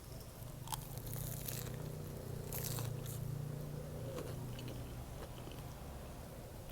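Close-miked biting and chewing of an egg sandwich, with a few crisp crunches about a second in and again at around two and a half seconds, over a steady low hum.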